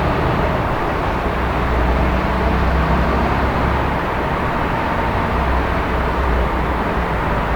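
Steady city traffic noise: a constant wash of vehicles with a low rumble, with no single car or event standing out.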